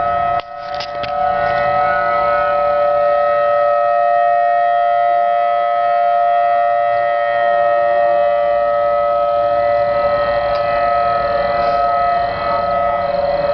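Outdoor tornado warning siren sounding a steady, unwavering multi-tone wail, signalling a tornado warning. The loudness dips briefly about half a second in.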